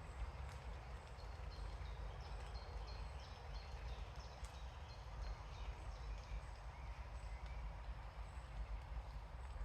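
Outdoor woodland ambience: a steady low rumble with a faint hiss, a run of short high chirps from about one to three and a half seconds in, and a few faint sharp ticks.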